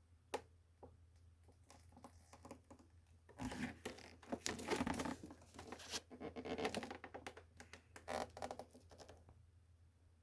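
Faint scattered clicks, scrapes and rustling of objects being handled up close, busiest in the middle, over a low steady hum.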